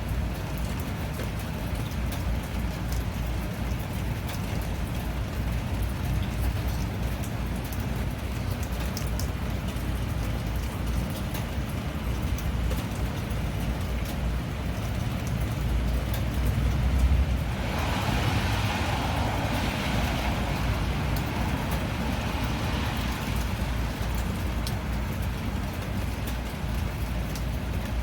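Steady rain with a deep, continuous low rumble under it and scattered faint drop ticks. A little past halfway, a louder hiss swells up and fades away over several seconds.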